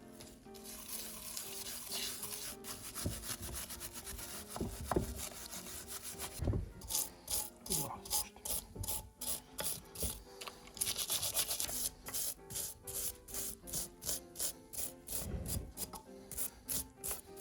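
Abrasive rubbing by hand on a pump part: a continuous rasping scrub for the first several seconds, then quick back-and-forth strokes about three a second.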